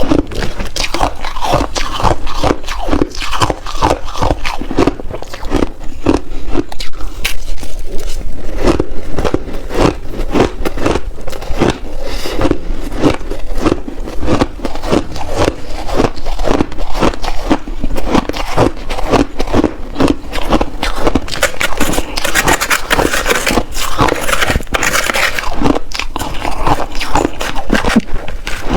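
Shaved ice crunched and chewed in big mouthfuls close to the microphone: a dense, irregular run of crisp crunches that goes on without a break.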